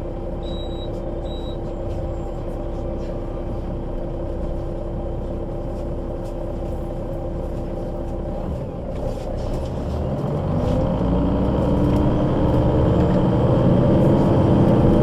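Solaris Urbino 12 III city bus with a Voith automatic gearbox idling with a steady hum, with two short high beeps about a second in. About ten seconds in it pulls away, its engine and drivetrain rising in pitch and getting louder as it accelerates.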